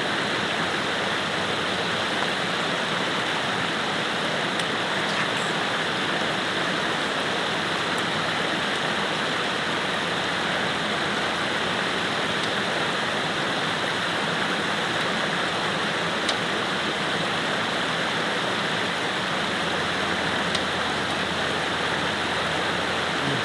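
Steady rush of a waterfall and river water pouring over rocks.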